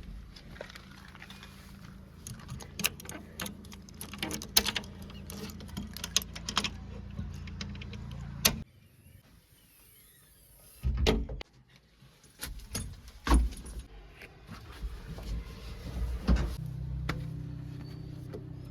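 Diesel engine running steadily with scattered clanks and rattles, cutting out abruptly about eight seconds in. After a near-quiet spell, several heavy thumps follow, and the engine hum comes back near the end.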